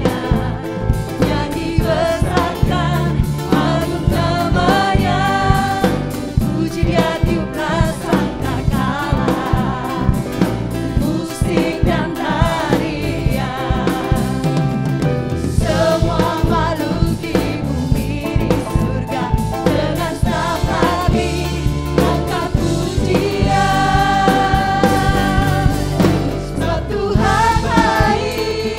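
Worship band and singers performing an upbeat gospel praise song in Indonesian, with a steady drum beat under the voices.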